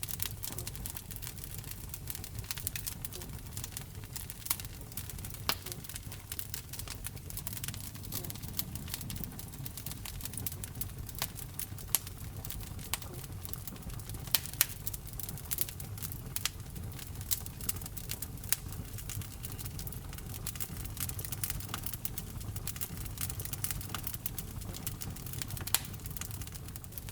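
Wood fire burning in a fireplace: frequent sharp crackles and pops at irregular intervals over a low, steady rumble of the flames, with a few louder pops.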